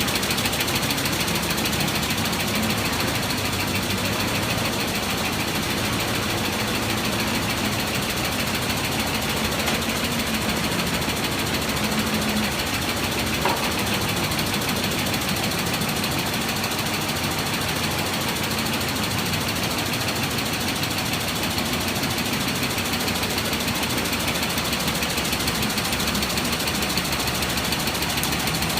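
Multi-needle shuttle quilting machine running at a steady pace, its needle bars and shuttles clattering in a fast, even rhythm.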